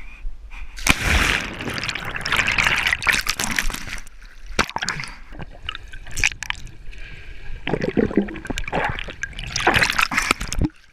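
Water splashing and sloshing close to the microphone, in two loud stretches: one starting about a second in, the other from about eight seconds in, stopping suddenly near the end.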